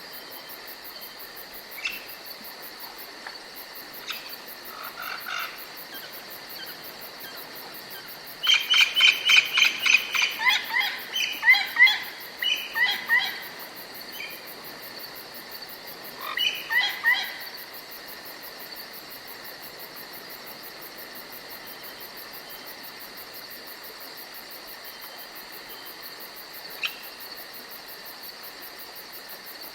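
Forest ambience with a steady chirring of insects throughout. A songbird sings a loud, rapid phrase of repeated downslurred notes about eight seconds in and a shorter phrase around sixteen seconds, with a few single chirps scattered between.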